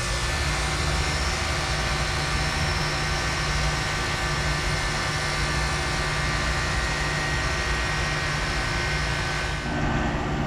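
1995 Lennox 7.5-ton heat pump package unit running in cool mode: a steady rush of air from the condenser fan over the hum of its dual Bristol reciprocating compressors. Near the end the high rush drops off and the low hum carries on.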